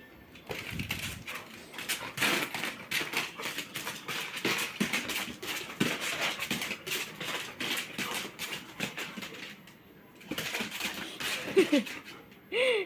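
Rapid clicking and scratching for most of the stretch, then a dog whimpering briefly in a few short whines near the end.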